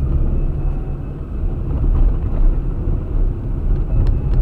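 Car driving, with a steady low rumble of engine and road noise picked up by a dashcam, and a few faint clicks about four seconds in.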